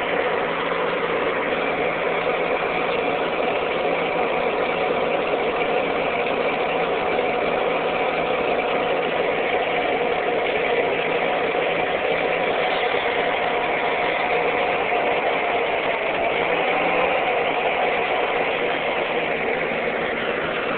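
1949 Ford 8N tractor's four-cylinder flathead engine running steadily, its wiring freshly repaired.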